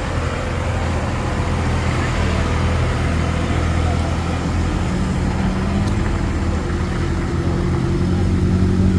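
Heavy diesel engine running steadily at a low hum, its note firming up a little in the second half.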